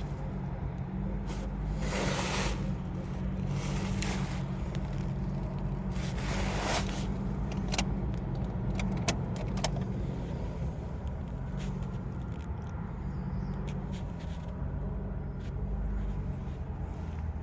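Steady low hum of an engine idling nearby, with scattered sharp clicks and knocks and a few brief rushes of noise.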